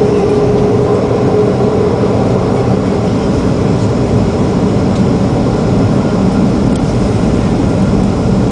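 Jet engines of a Boeing 737-400 running, a loud steady rumble, with a steady hum that fades out in the first second and a half.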